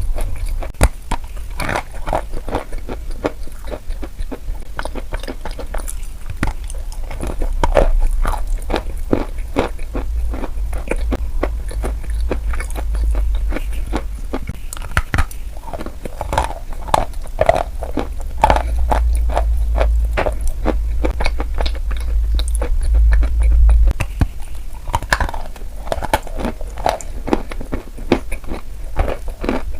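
Close-miked crunching and crackling: dense, irregular crisp clicks over a low rumble.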